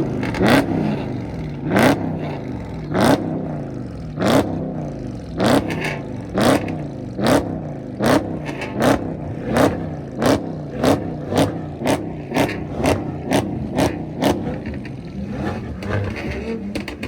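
A car engine revved in short, sharp blips over a steady idle. The blips come about once a second at first, quicken to two or three a second, then settle back to idle near the end.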